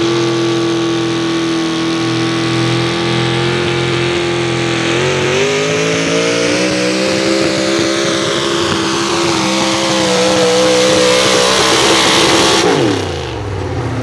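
Chevrolet 4x4 pulling truck's engine at full throttle, held at high revs as it drags the sled down the track. Near the end the throttle is chopped and the revs fall away quickly.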